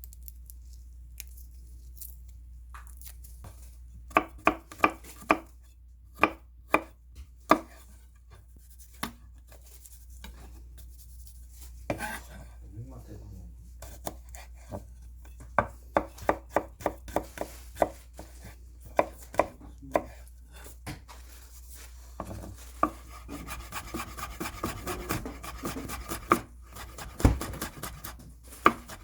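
Kitchen knife chopping on a cutting board: short runs of sharp strikes with pauses between them, becoming quicker and denser near the end.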